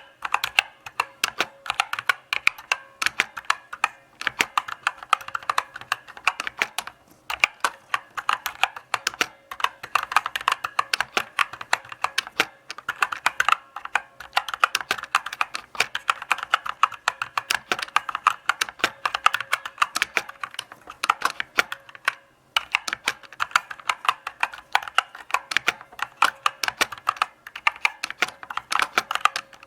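Typing on a mechanical keyboard: a steady run of key clicks and clacks, pausing briefly a few times.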